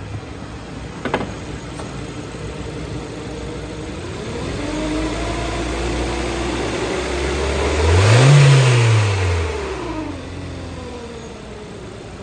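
2012 Kia Soul's 1.6-litre GDI four-cylinder engine idling, then revved up once about eight seconds in and dropping back to a steady idle.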